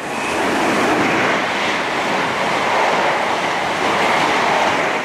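A train running past, a steady loud rail and wheel noise with no horn or engine note standing out.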